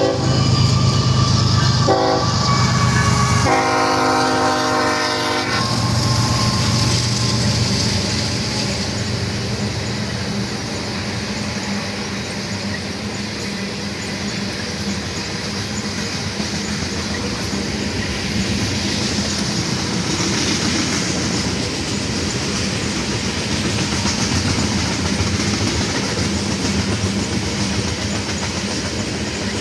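CSX freight train approaching and passing. The diesel locomotive sounds its air horn, a brief blast and then a longer one of about two seconds, over the engine's low running. Then a long string of tank cars rolls past with a steady rumble and clickety-clack of wheels on rail joints.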